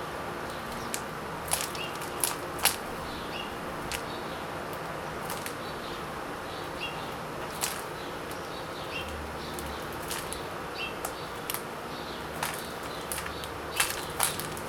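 Birds feeding: scattered sharp clicks at irregular intervals and faint short chirps over a steady hiss.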